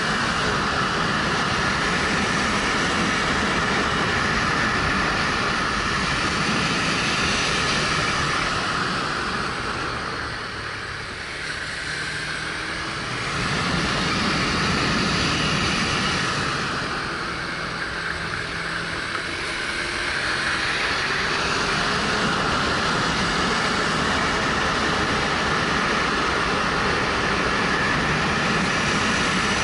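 Wind rushing over a helmet-mounted action camera, with a 2013 Suzuki GW250's parallel-twin engine running underneath. The rush eases twice, about ten and seventeen seconds in, then picks back up.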